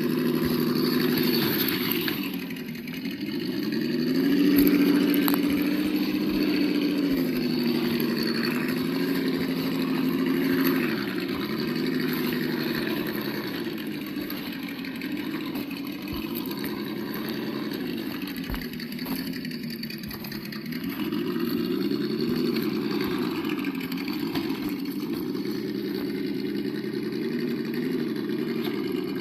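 Simulated engine sound from the sound module of an Absima Yucatan 1:8 RC crawler, played through its small speaker. The pitch rises and falls repeatedly as the throttle is worked, with a longer held rev a few seconds in and several shorter revs up and back down later.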